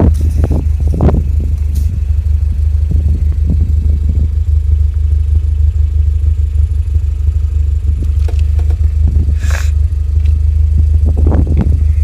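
A vehicle driving off-road: a loud, steady low rumble with scattered knocks and rattles, and a brief hiss about two-thirds of the way through.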